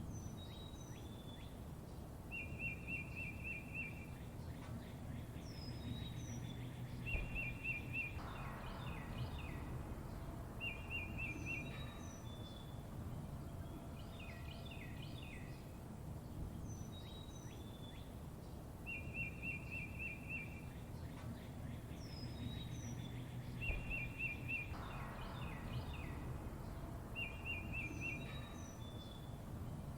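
Several songbirds chirping, with short rapid trills, quick chirps and high falling whistles, over a steady low rumble of background noise. The same run of calls repeats about every 16 seconds.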